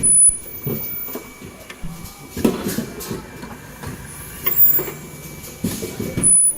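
Automatic N95 cup mask machine running, with clusters of mechanical knocks and rattles recurring about every two seconds and a faint steady high tone underneath.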